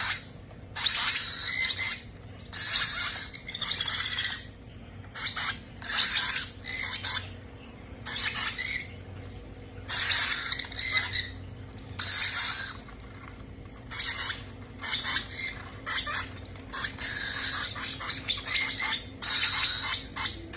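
Baby parrots giving harsh, noisy food-begging squawks, one after another about once a second, each call half a second to a second long.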